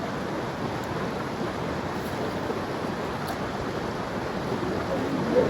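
Steady rush of river rapids, an even wash of moving water.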